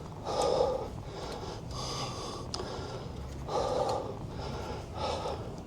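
A cyclist breathing heavily while riding, four audible breaths about a second and a half apart, over low steady wind and road rumble.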